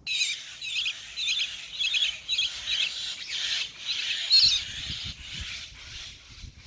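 Small bird chirping: a rapid series of short, high chirps, loudest about four seconds in, then fainter.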